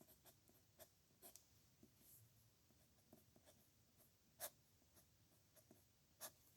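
A pen nib scratching across paper in handwriting: faint short strokes, with two sharper taps a little after four seconds and near the end.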